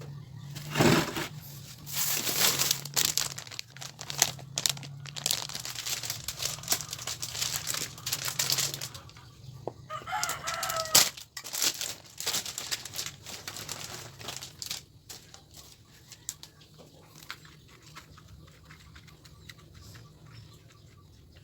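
A rooster crowing about ten seconds in, over a clatter of sharp clicks and knocks that thins out in the second half.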